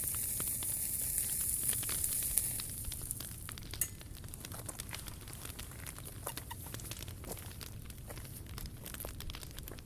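Wood fire crackling, with irregular sharp pops and snaps. A high hiss from the burning wood is strong at first and fades out about three seconds in.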